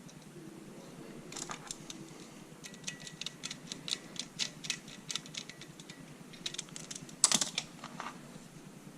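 Handling of tools and small parts while working on a vacuum pump: a run of sharp clicks and taps, quick and irregular, with the loudest clatter near the end.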